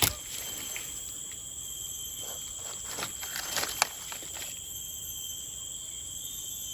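Forest insects buzzing steadily at two high pitches, with a few scattered clicks and knocks, a sharp one at the start and another near four seconds in.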